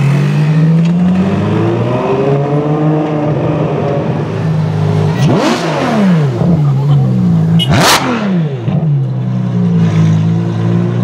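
Ferrari F12's V12 engine through an Armytrix exhaust, idling and being revved: a gentle rise and fall early, then two sharp blips about halfway and two seconds later, each climbing steeply and dropping back to idle, the second with a sharp crack at its peak.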